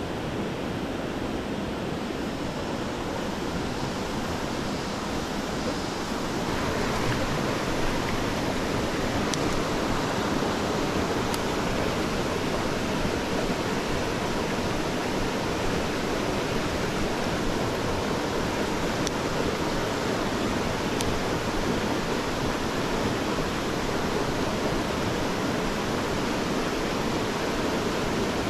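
Mountain stream water rushing over rocks, a steady full noise that gets a little louder about six seconds in.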